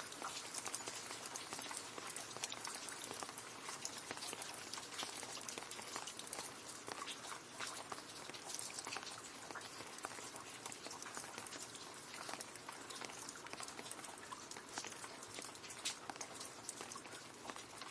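Steady rain falling into a puddle: a continuous hiss of rainfall with many separate drops splashing and pattering on the water.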